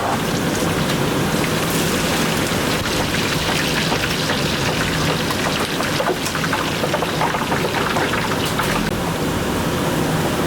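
Food frying in hot oil in a commercial kitchen: a steady, dense sizzle with fine crackling throughout.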